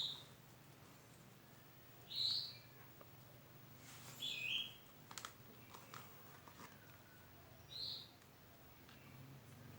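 Faint short bird chirps, four of them a few seconds apart, one falling in pitch, over a low steady hum and a few light clicks.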